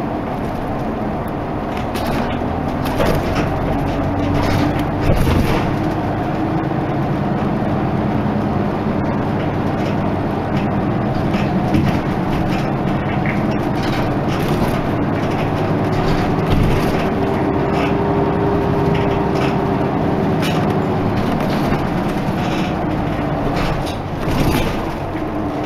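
Isuzu Erga Mio bus under way, its diesel engine running with a pitch that rises and falls as it pulls away and changes gear, over scattered knocks and rattles.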